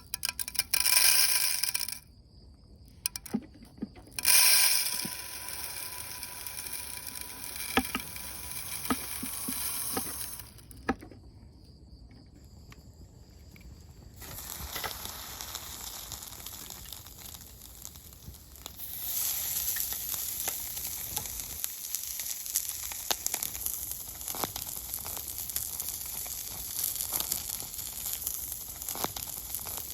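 Outdoor cooking sounds: cookware and utensils being handled with clicks and clatter, with a few loud bursts in the first few seconds. Then, from about two-thirds of the way in, food sizzling and crackling in a pan.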